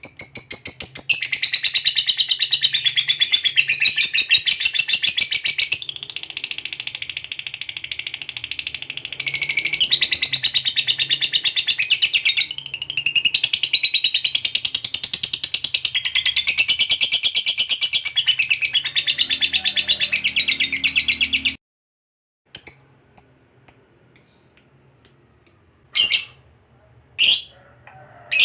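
Lovebird's long 'ngekek' chatter: a rapid, unbroken high trill that wavers up and down in pitch for about twenty seconds, then stops abruptly. After a brief silence come short separate chirps.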